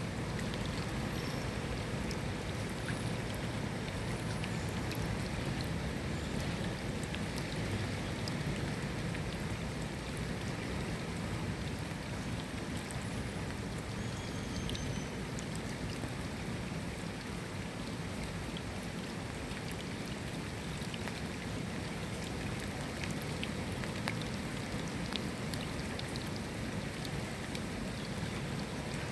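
Steady rain falling: an even, dense hiss with scattered sharper drop ticks.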